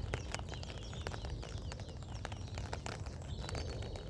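Rain pattering outdoors: irregular sharp drops ticking over a steady low rumble of wind, with a few faint bird chirps near the end.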